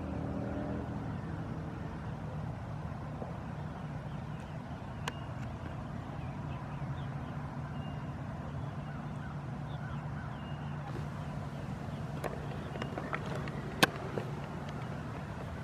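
Power wheelchair's electric drive motor humming steadily as it rolls, with a few sharp clicks near the end and faint, brief bird chirps.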